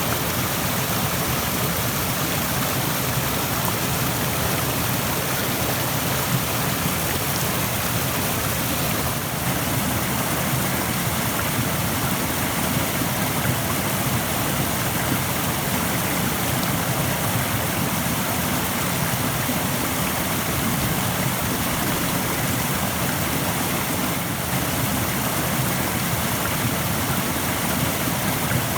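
Rushing stream water, a steady, even flow without breaks.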